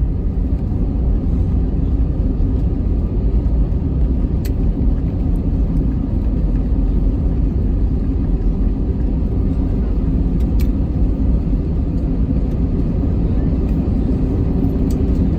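Airbus A320 cabin noise on the ground after landing: a steady low rumble of the engines and the wheels rolling on the tarmac, with a couple of faint clicks.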